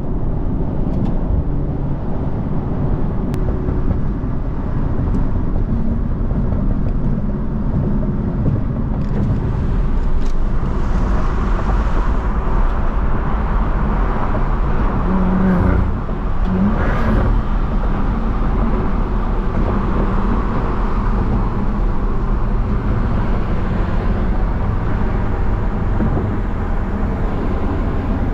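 A BMW F30 335i with a stage 2 tune and catless downpipe being driven: its turbocharged inline-six and the road noise run steadily, and the sound grows fuller and louder about ten seconds in.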